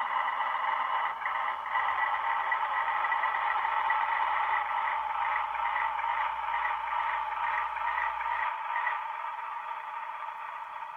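Sound decoder in an HO-scale Atlas ALCO C424 model locomotive playing its diesel engine sound through a small speaker, a steady thin drone. A low hum underneath stops about eight and a half seconds in.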